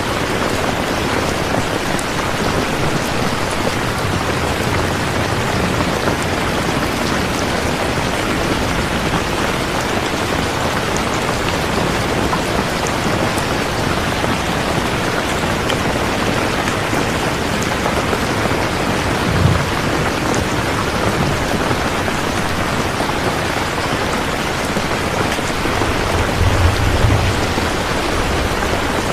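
Steady, heavy rain falling and pattering on surfaces. There is a brief low thump about two-thirds of the way in and a low rumble of a couple of seconds near the end.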